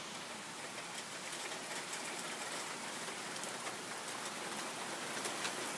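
Steady rain falling: an even hiss with scattered sharp ticks of nearby drops.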